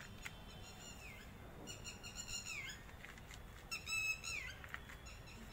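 A bird calling repeatedly, several short nasal calls each ending with a downward slide, the loudest about four seconds in. Faint ticks of soil and grit being handled sound under them.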